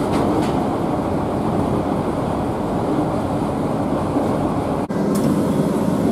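IGR Iwate Galaxy Railway train heard from inside the car while running: a steady rumble of wheels and running gear on the rail. The noise breaks off for an instant near the end and then carries on.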